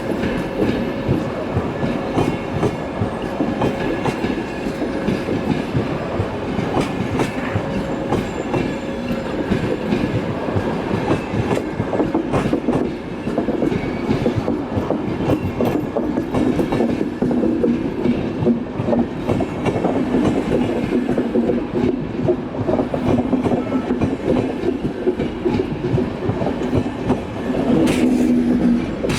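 Train wheels clattering steadily over the rails, with a continuous run of rapid clicks and a faint steady whine rising out of the running noise in the second half.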